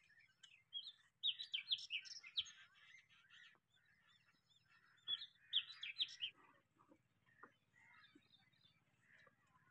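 Birds chirping in two bursts of quick, sharp calls, about a second in and again about five seconds in, over a faint low hum.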